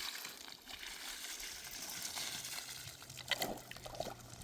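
Running water, a steady trickling hiss, with a few small knocks about three seconds in.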